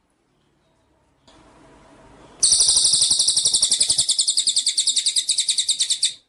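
A songbird's loud, high, rapid trill of evenly repeated notes, about a dozen or more a second, starting abruptly about two and a half seconds in after a faint hiss and lasting nearly four seconds before cutting off.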